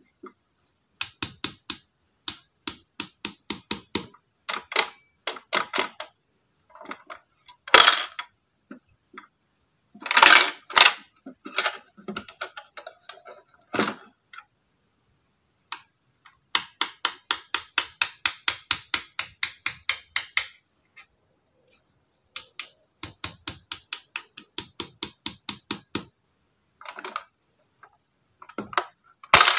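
Small clicks and taps from a toy mini vending machine being handled: runs of quick, even clicks about five a second, broken by a few louder knocks.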